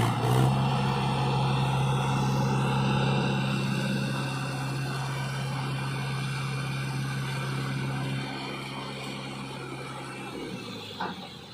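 Diesel engine of a backhoe loader or tractor running steadily, its note fading away over the last few seconds.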